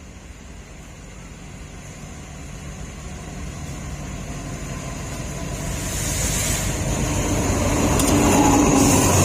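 Commuter train approaching the platform, its rumble growing steadily louder, with a high hissing squeal building from about six seconds in as it slows to stop.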